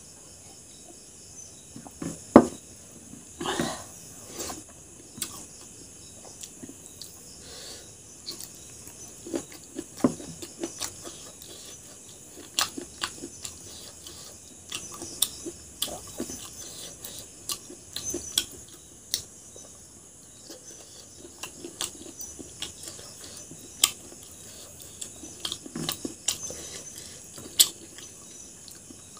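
A person chewing a meal of rice and chicken gizzard curry eaten by hand, with mouth smacks and fingers mixing food on a plate: irregular short clicks and smacks, the loudest about two and three seconds in, over a faint steady hiss.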